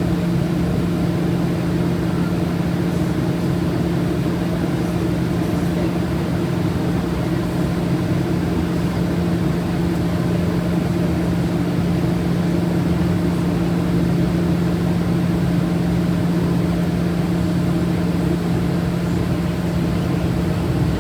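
Aircraft engine drone, steady and unchanging, with a low hum and a higher tone over a rushing noise.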